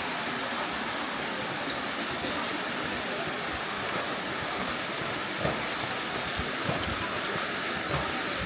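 Steady rushing of water, an even hiss with no break, with a few soft low knocks from about five seconds in.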